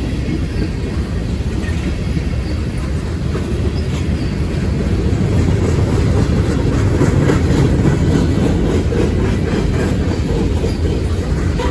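Freight cars of a passing train rolling by close at hand: a steady low rumble of steel wheels on the rails, with quick clicks of wheels over the rail joints that grow louder a few seconds in.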